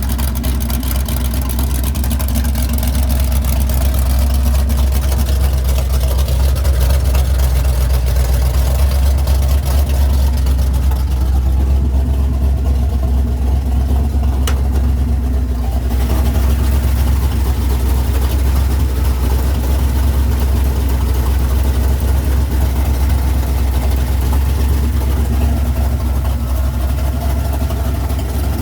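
Ford 429 Cobra Jet big-block V8 running steadily at idle, with a deep, even rumble.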